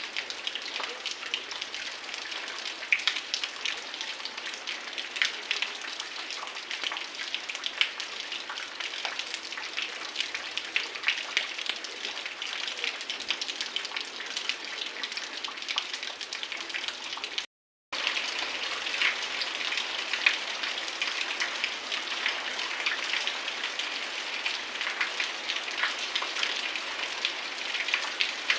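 Heavy rain falling steadily, with many close drops striking surfaces as sharp individual taps over the hiss. The sound cuts out completely for a moment about two-thirds of the way through.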